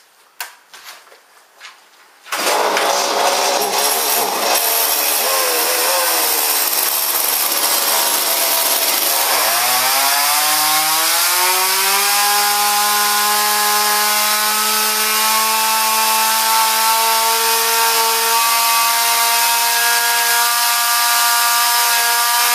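A two-stroke chainsaw starts about two seconds in after a few faint clicks, runs unevenly at first, then revs up about nine seconds in and holds at high revs with a steady whine.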